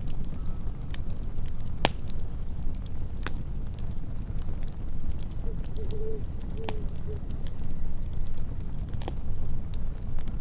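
Campfire crackling and popping, with sharp snaps at irregular intervals over a low steady rumble of the flames. Crickets chirp in short, evenly spaced calls in the background.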